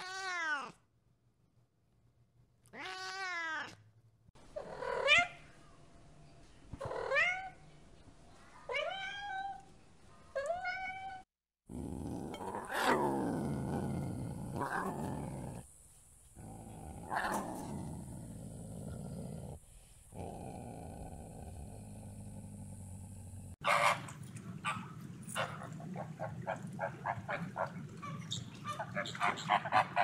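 A cat meowing about six times, each meow falling in pitch; then lions growling; then a flock of flamingos honking in quick, repeated calls that come faster toward the end.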